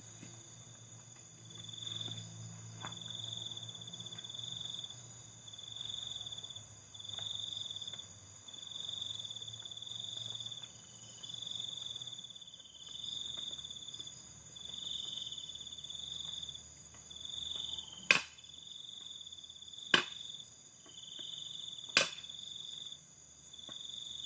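Crickets and other night insects chirping in high trains, one after another. Near the end come three sharp knocks, evenly two seconds apart.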